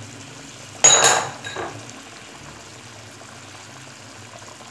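Fish heads frying with spices in oil in a pan, a steady low sizzle, with one sharp metallic clink of a utensil about a second in.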